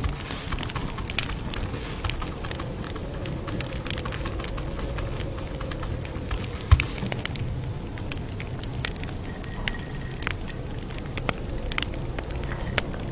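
Campfire crackling: a steady low rumble of flames with many irregular sharp pops and snaps, and one louder low thud near the middle.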